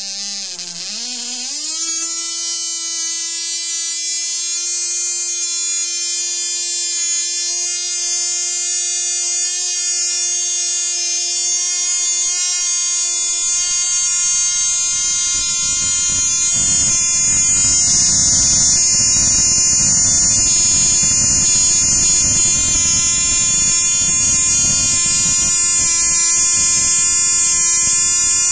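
Cox Tee Dee .010 two-stroke glow engine running at full speed after starting: its pitch climbs quickly in the first two seconds, then holds a steady high-pitched whine. About 13 seconds in, a rough low rumble joins underneath.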